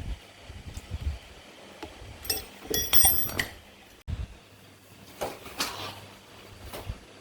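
Metal parts being handled: light knocks and clicks, with a cluster of ringing metallic clinks a little before the middle and a short scraping swish later.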